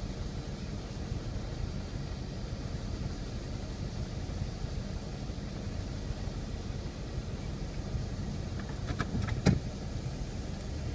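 Steady low vehicle rumble, with a few quick clicks and one sharper knock about nine and a half seconds in.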